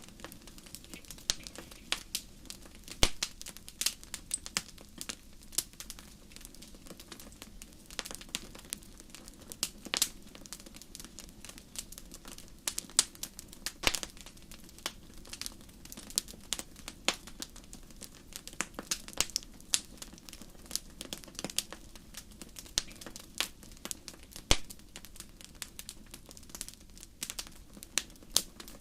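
Wood fire burning in a fireplace, crackling with irregular sharp pops, several a second, over a steady low rumble of the flames; the loudest pops come about three seconds in and about fourteen seconds in.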